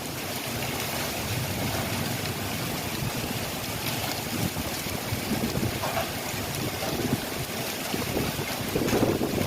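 Heavy rain falling as a steady hiss, with irregular low rumbles of wind on the microphone.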